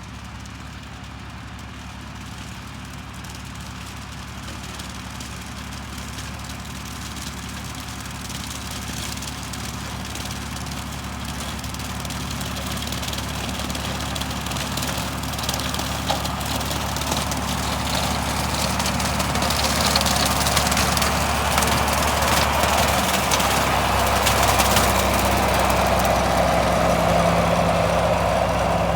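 John Deere 4020 tractor running with a gyro mower (rotary cutter) behind it, a steady engine and cutter sound that grows gradually louder as the rig approaches, loudest over the last third.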